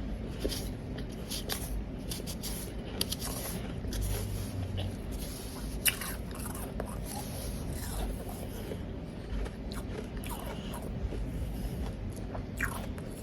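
Powdery ice being bitten and chewed close to the microphone: irregular crisp crunches and crackles, with one sharper crack about six seconds in.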